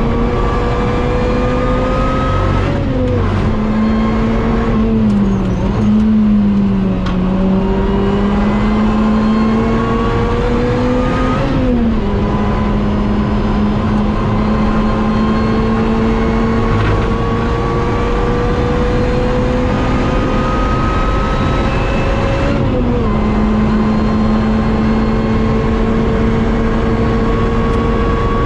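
Lotus Exige S engine pulling at full throttle on track, its pitch climbing slowly and then dropping sharply about four times at gear changes or lifts. The slow climb fits the engine being down on power, which the driver notices that day.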